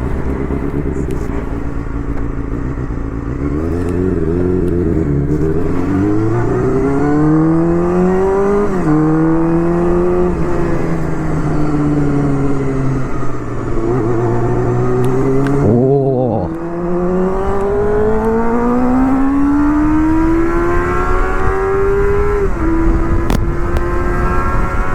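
Honda Hornet 250's inline-four engine through a loud Pretty Racing aftermarket exhaust, pulling up through the revs with a sharp drop in pitch at each upshift, about a third of the way in and again near the end, and easing off in between.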